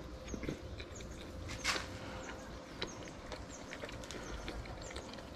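A person chewing a bread roll with grilled sausage with the mouth closed: soft wet mouth clicks and smacks, with one sharper click a little under two seconds in.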